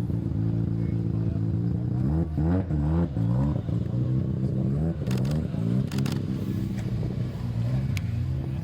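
A car engine idling, blipped up and down several times about two seconds in and again around six seconds in.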